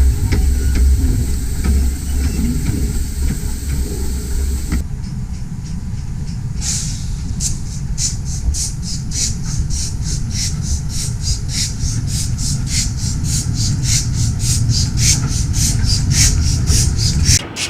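A 15-inch gauge miniature steam train running. First comes a steady low rumble of the train on the track with a hiss. About five seconds in, this gives way to a quick, even rhythm of steam exhaust beats from the locomotive.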